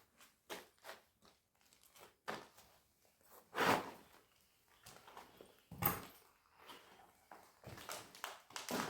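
Footsteps crunching and scraping over debris on the floor: a scatter of short, irregular crunches, the loudest about a third and two thirds of the way through.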